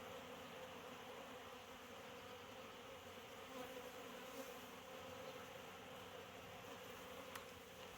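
Honeybees buzzing steadily around an open nuc hive during an inspection: a faint, even hum.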